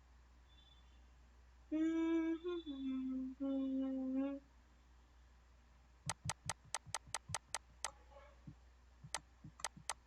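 A voice hums a short phrase of three held notes, the pitch stepping down, then about four seconds of sharp clicks or taps, roughly three to four a second.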